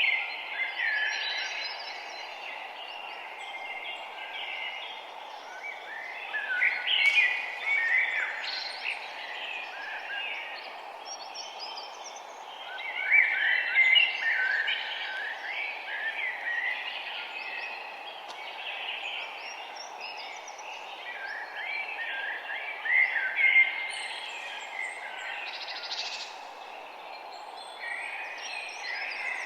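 Several songbirds chirping and twittering in overlapping bursts of short, quick notes with brief lulls between, over a steady low background rush.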